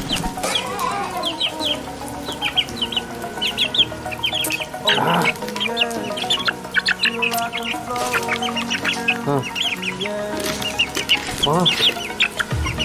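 Bird calls: many short high chirps in quick clusters, with a few lower clucking calls, over background music.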